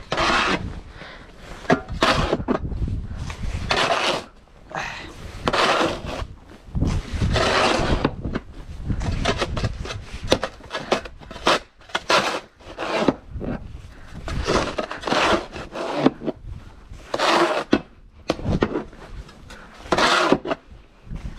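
Snow shovel scraping and pushing through snow in repeated strokes, one every second or two, at an uneven pace.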